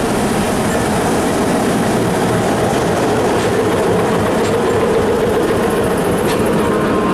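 Train running at slow speed, heard from an open carriage door: a steady, loud rumble of wheels on rails with a few faint clicks.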